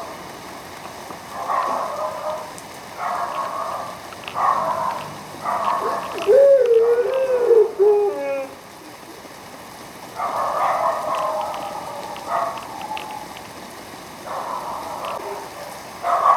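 Rain falling in uneven surges that come and go every second or two. About six seconds in, a loud wavering pitched cry rises and falls for a second or two.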